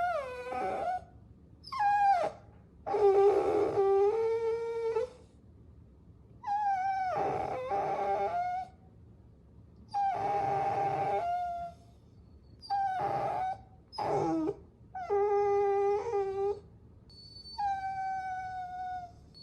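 Puppies whining: about nine drawn-out, high-pitched whines and small howls, each lasting up to two seconds with short pauses between, several sliding down in pitch at the end.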